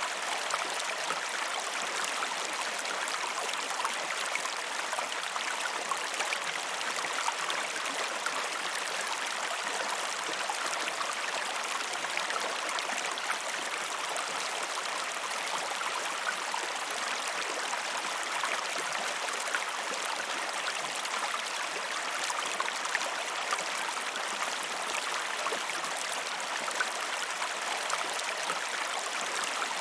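Flowing river water running over a small waterfall: a steady, even rush with quick little splashes and bubbling throughout, and hardly any deep rumble.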